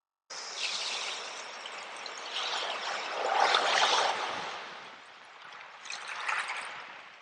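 Sea waves washing in, cutting in abruptly just after the start: one wave swells to a loud rush around the middle and fades away, and a smaller wash follows near the end.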